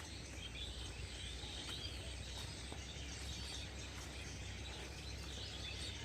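Faint rural outdoor ambience: small birds chirping and insects trilling over a steady low rumble.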